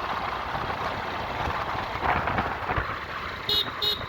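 Steady rush of wind and road traffic noise while riding, with two short vehicle horn beeps about half a second apart near the end.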